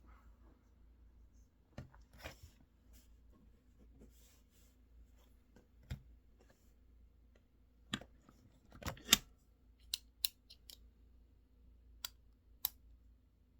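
Scattered sharp clicks and taps of desk work, about ten of them at irregular intervals, the loudest a pair just after 9 seconds in, over a faint steady room hum.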